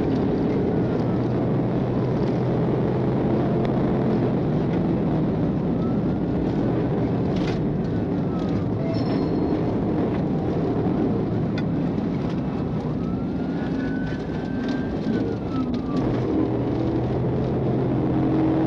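Police car siren wailing slowly up and down over steady engine and road noise during a pursuit.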